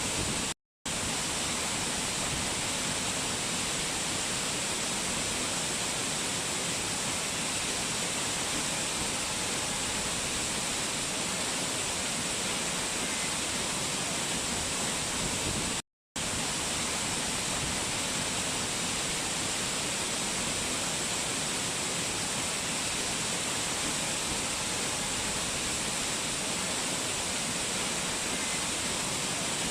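Mountain water rushing and splashing in a steady, even roar of noise. The sound cuts out to silence for a split second twice, about a second in and about halfway through.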